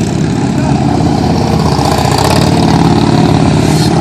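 Harley-Davidson police motorcycles' V-twin engines running steadily at low speed.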